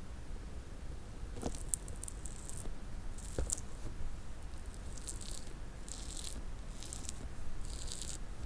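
Close-miked ASMR tapping and rattling of small hard objects, coming in about six short clusters of crisp clicks spread across the seconds, a couple of them with a sharper tap.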